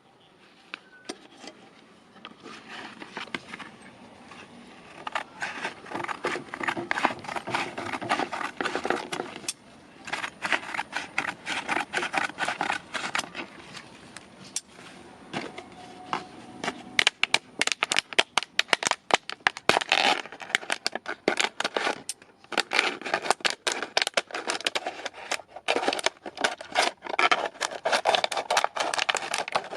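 Rapid scraping and clicking in stretches a few seconds long, with short pauses between them, from hand work on forged scissors.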